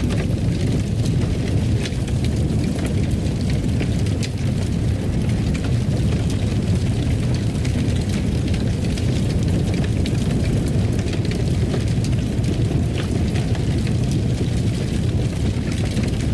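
Wood fire crackling: a steady low rumble with frequent small, irregular pops and snaps.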